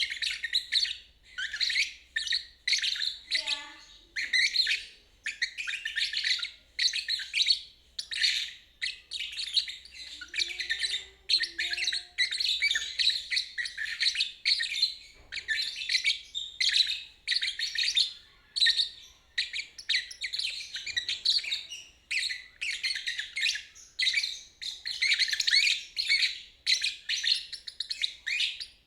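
Lovebird singing in the 'ngeriwik' style: rapid, high-pitched chattering twitters in short bursts, one after another with brief pauses.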